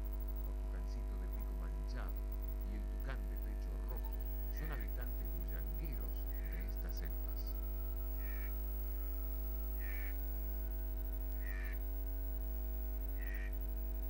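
A bird repeats a short call about every one and a half seconds over a steady electrical hum, with scattered brief chirps early on.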